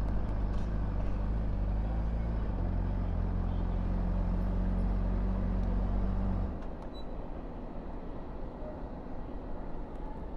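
Honda CBR600RR's inline-four engine idling steadily through its exhaust, then its sound stops abruptly about six and a half seconds in, leaving quieter background noise.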